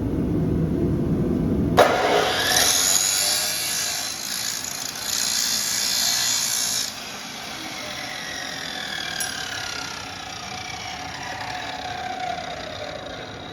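Abrasive chop saw running, then grinding against steel bar stock for about five seconds, starting with a sharp click. The saw is then released and its whine falls steadily in pitch as the blade spins down.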